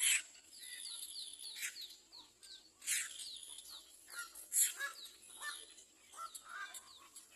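Birds chirping: runs of quick, high, falling chirps with scattered lower chirps between them. A few brief sharp noises stand out, about 1.5, 3 and 4.5 seconds in.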